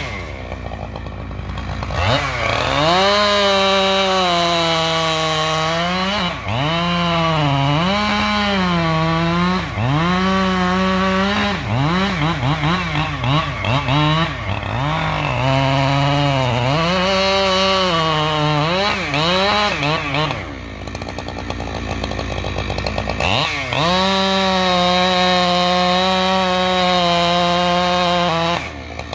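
Husqvarna two-stroke chainsaw revving from idle to full throttle, its pitch repeatedly dipping and rising again. It drops back to idle for a few seconds about two-thirds of the way through, then revs up again before falling off near the end.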